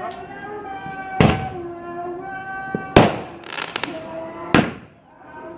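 Fireworks exploding: several sharp bangs spaced about a second apart, each with a short ringing tail. Behind them a voice holds long sung notes.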